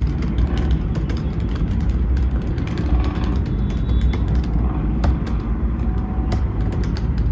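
A moving vehicle: a loud, steady low rumble with scattered clicks and knocks throughout.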